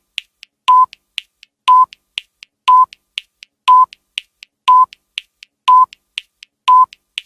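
Countdown timer sound effect: a short electronic beep once a second, with quieter clock-like ticks between the beeps at about four a second, marking off a ten-second countdown.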